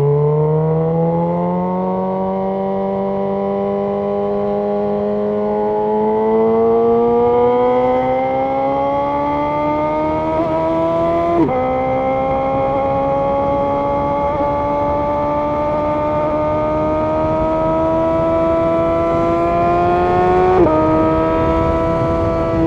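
Suzuki GSX-R750 inline-four engine running under way, its pitch climbing slowly and steadily, with two brief dips in pitch about 11 and 21 seconds in.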